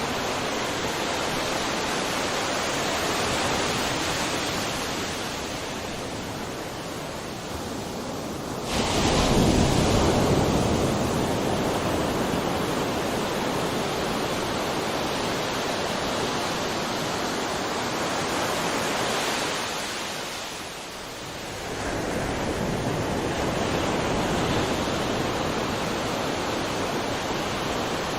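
Sea surf washing ashore in a steady rush, with a wave breaking loudly about nine seconds in and another swelling in after a brief lull near the three-quarter mark.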